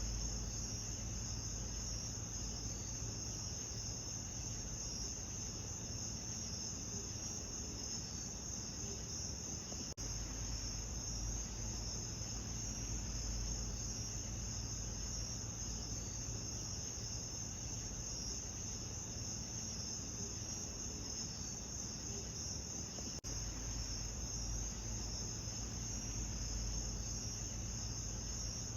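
A steady chorus of crickets: dense, high chirping over a low rumble. There are two brief clicks, about a third of the way in and again near the end.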